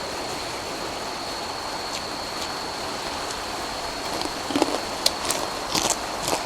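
Steady rain falling, an even hiss, with a thin high tone held constant over it. From about four seconds in come a run of sharp clicks and taps.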